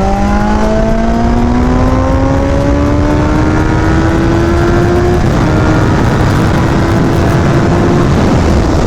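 Yamaha FZ1's inline-four engine under throttle, the revs climbing steadily for about five seconds and then holding level, with heavy wind rush on the helmet-mounted microphone.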